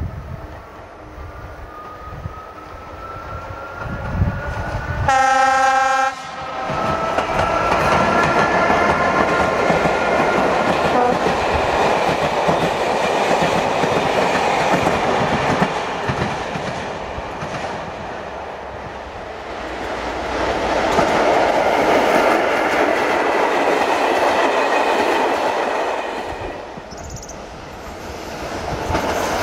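ČD class 163 electric locomotive hauling a passenger train approaches with a faint rising whine and sounds its horn once, for about a second. The coaches then roll past with a steady rumble and rail clatter. Near the end the noise dies down and another train starts to approach.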